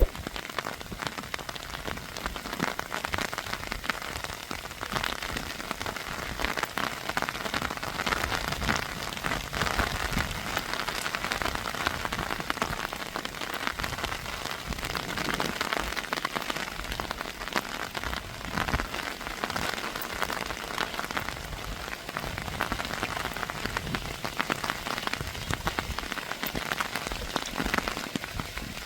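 Heavy rain falling on a surface: a steady dense hiss packed with many separate drop hits.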